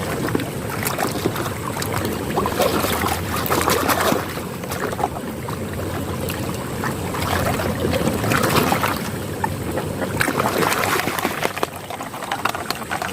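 Water splashing and sloshing as a mud-caked plastic toy truck is scrubbed and rinsed by hand, with scattered small knocks and splashes throughout.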